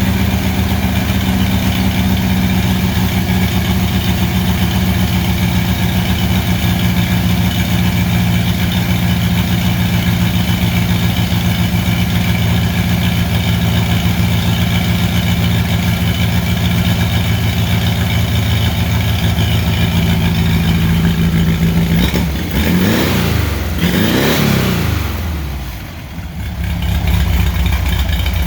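Air-cooled VW 1600 single-port flat-four with a Holley 2110 'bug spray' carburettor, running steadily at a fast warm-up idle. About 22 and 24 seconds in, the throttle is blipped twice, each rev rising and falling. The engine then sags briefly and settles back to idle, which is not yet set on the freshly warmed engine.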